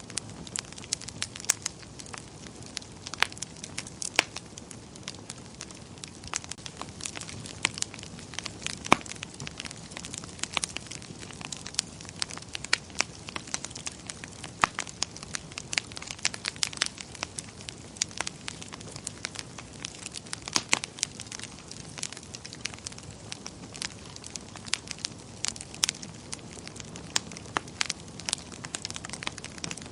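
Wood fire burning in a fireplace: a steady low rush of flame with frequent irregular sharp crackles and pops.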